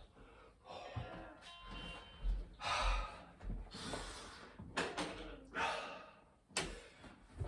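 A man breathing hard in deep, noisy gasps, about one a second, winded after a round of 25 burpees. A sharp click comes near the end.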